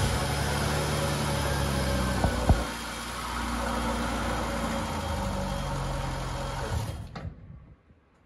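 1971 Opel Kadett's four-cylinder engine running just after being coaxed back to life from barn storage, with two sharp pops about two seconds in, the banging from the front that it keeps making. It then settles to a lower, steadier note and stops about seven seconds in.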